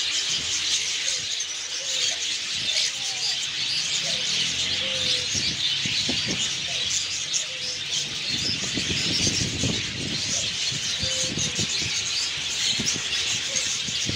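Many small caged pet birds chirping and twittering together in a dense, continuous chorus. There are some low rustles and bumps about halfway through.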